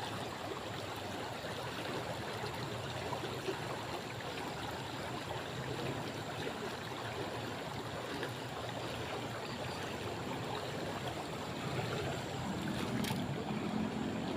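Steady rushing of water, an even hiss with no clear pitch, with a faint click near the end.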